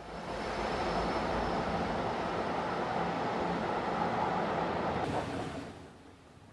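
Subway train rushing past with a low rumble, starting suddenly and dying away near the end.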